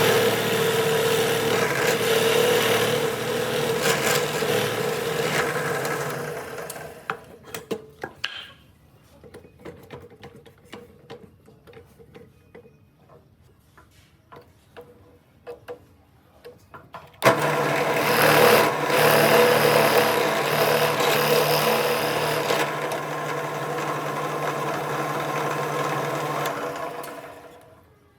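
An electric power tool running against wood with a steady motor whine. It winds down after about seven seconds, leaving light clicks and knocks of handling, then starts abruptly again about seventeen seconds in and winds down near the end.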